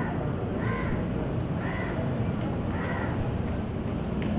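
A bird calling repeatedly, short calls about a second apart, over a steady low background noise.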